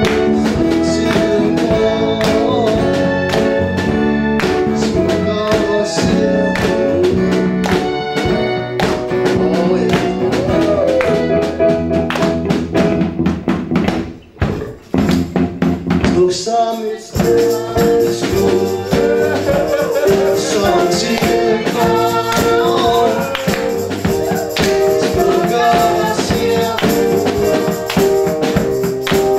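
A school ensemble playing a pop song with held instrumental notes and a tambourine keeping time. About fourteen seconds in the music breaks off briefly, then the band comes back in.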